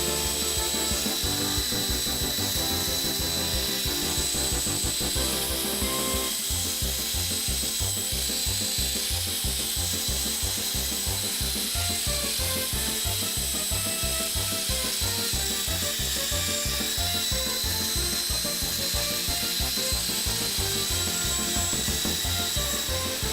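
Walkera 5#10 coaxial electric RC helicopter flying, its motors and rotors whirring steadily with a high, even whine.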